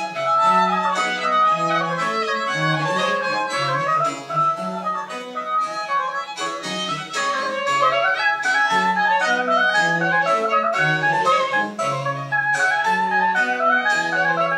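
A Baroque chamber ensemble of woodwinds and bowed strings playing a lively piece of French Baroque music: quick melodic runs in the upper voices over a steadily stepping bass line.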